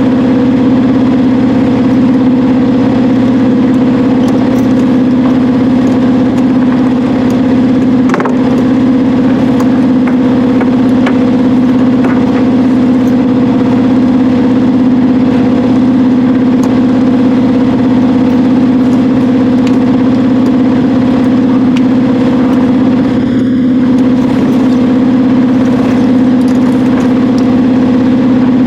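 Sailboat's auxiliary engine running steadily at a constant low speed, with a single knock about eight seconds in.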